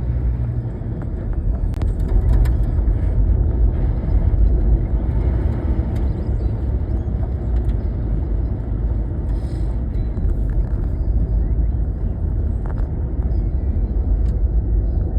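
Garbage truck engine running with a steady low rumble, with a few faint clicks and knocks.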